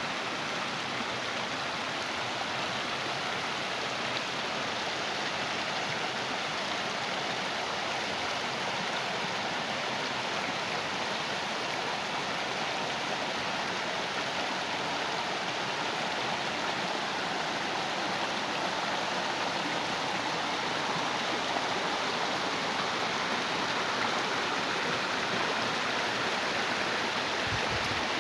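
Flowing water rushing steadily in a stream channel. It is a continuous rush that grows slightly louder over the second half.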